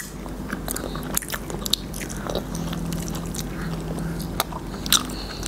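People chewing sausages coated in nacho cheese, with scattered small clicks and smacks of the mouth.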